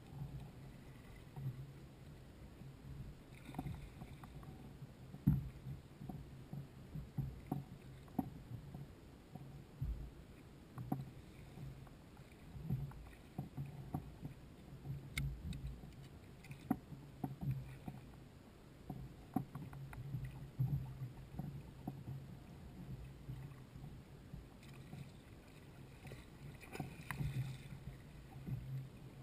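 Fishing kayak on the water: irregular knocks and clicks against the hull and gear, with water lapping and a low steady hum underneath.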